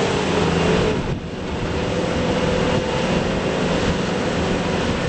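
2006 Bobcat S250 skid steer's Kubota diesel engine running steadily, with a brief drop in level about a second in.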